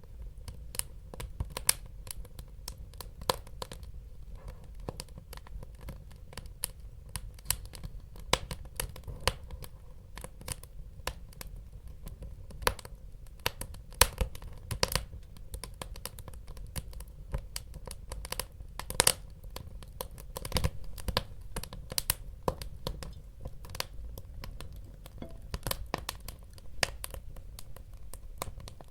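Wood fire burning in a fireplace: a steady low rumble of flames with irregular crackles and sharp pops of the burning logs, a few of them louder.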